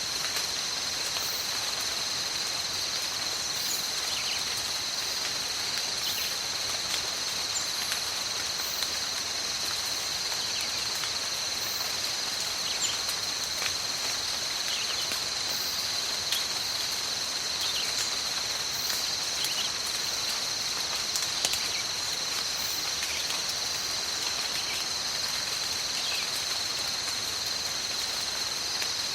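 Steady rain in a tropical forest, with a continuous high-pitched insect chorus holding two steady tones over it and scattered louder drops.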